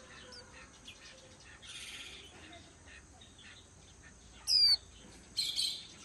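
Small bird calling: a quick run of thin, high chirps that slide downward in pitch about four and a half seconds in, then a short scratchy burst of calls near the end, over quiet background.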